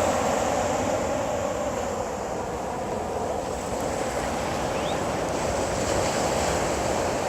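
Steady wash of surf and waves at the shore, with some wind on the microphone.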